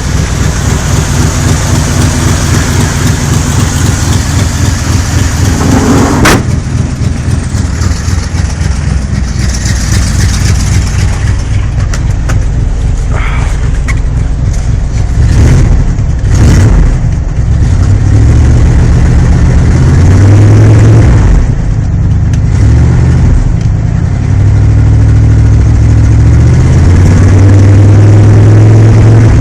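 1981 Ford F-250's modified 400 cubic-inch (6.6 L) V8 running just after a cold start, engine speed rising and falling several times in the second half. A few sharp clicks sound over it, about six seconds in and again around the middle.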